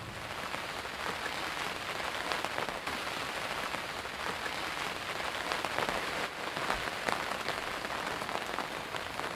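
Heavy rain falling on a lake and on waterproof camouflage fabric, a dense steady hiss with many close drops ticking sharply on the fabric.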